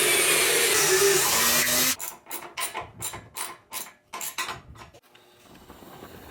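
Power drill boring through wood, running loud and then stopping about two seconds in. It is followed by a quick series of about eight short scraping strokes, roughly three a second.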